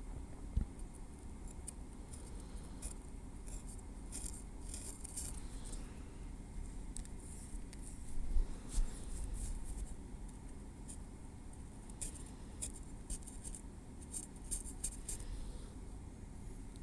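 Metal tweezers working over the scalp and through the hair, making soft, irregular clicks and light ticking in scattered clusters.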